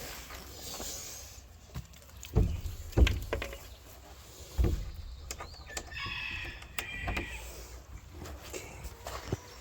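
Several dull knocks and thumps of handling, the loudest about three seconds in, then a short squeak about six seconds in.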